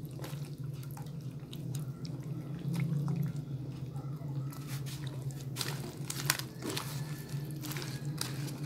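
Eggplant slices frying in masala in a nonstick wok, with light crackles and a steady low hum underneath. From about five seconds in, a spatula stirs and scrapes the eggplant, adding more frequent clicks.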